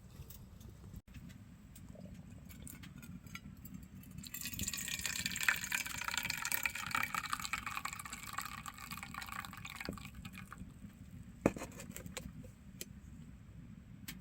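Liquid poured into a vessel for about five seconds, the pitch rising as it fills, followed by a single sharp clink.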